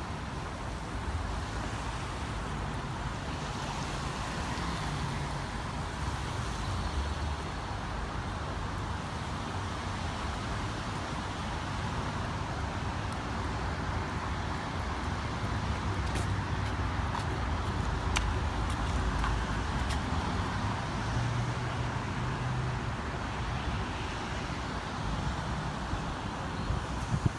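Steady city road traffic, cars passing on wet roads in the rain, with a few brief sharp clicks in the second half.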